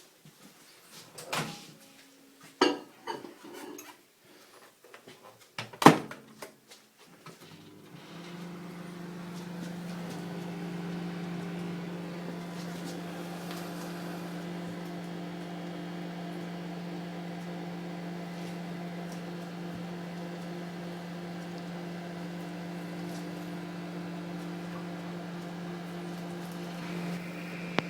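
A few sharp knocks and clicks, then a microwave oven starts about eight seconds in and runs with a steady, even hum.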